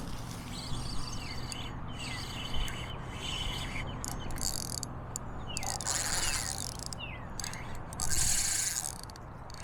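Birds calling: short falling chirps, several times, over a low steady hum, with brief hissing or scraping bursts about six and eight seconds in.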